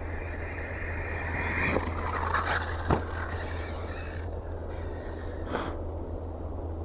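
Arrma Mojave 6S electric RC truck's brushless motor and drivetrain whining under throttle, then cutting out, followed by hard knocks of the truck landing and hitting the ground, the sharpest about three seconds in and another near the end. The owner puts the rough drivetrain sound down to a poor pinion gear.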